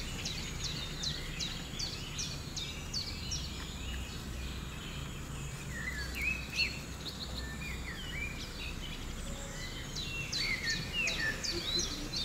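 Rainforest animal calls: many short, high chirps, each sliding downward, repeating throughout. They thin out mid-way and grow busier near the end, over a low steady rumble.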